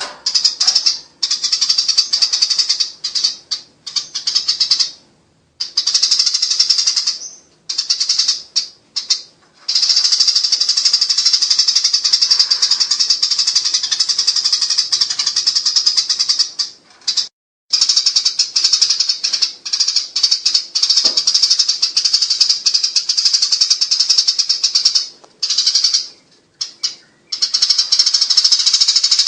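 Eurasian tree sparrows chattering in fast, harsh runs of chirps without a break, the squabbling 'nyerecet' call of fighting sparrows. The runs stop briefly several times and start again.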